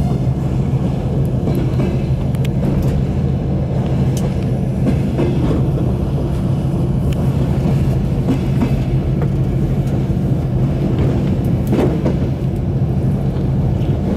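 Train carriage rolling at low speed into a station, heard from inside the coach: a steady low rumble with scattered clicks and knocks from the running gear.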